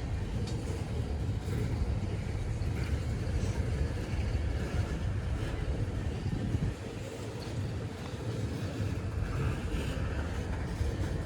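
Freight train cars rolling past, a steady low rumble of wheels on rail as the train slows down.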